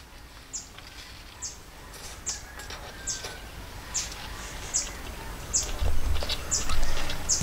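A bird repeating a short, high-pitched, falling call about once a second. A low rumble joins in near the end.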